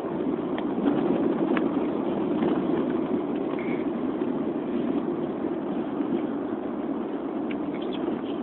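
Steady rumble of a vehicle driving, with a few faint clicks.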